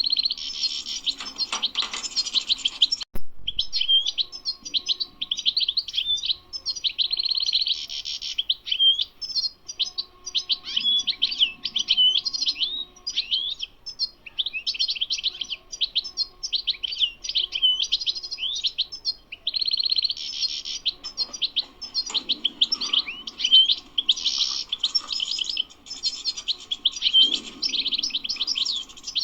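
European goldfinch singing a long, fast twittering song of rapid chirps and trills, broken only by short pauses.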